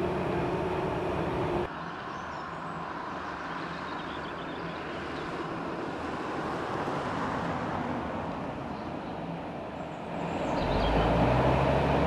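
Freight train behind an ÖBB electric locomotive crossing a stone viaduct: a steady rolling rumble of the wagons. About ten seconds in it grows louder, with a low hum.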